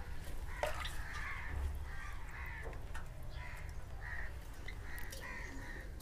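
Birds calling in the background: a series of short calls repeated every second or so.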